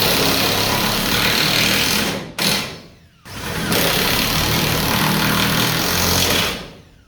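Power driver with a socket running lag screws into a post: two long runs, the second starting about three seconds in after a short pause, each ending as the screw seats.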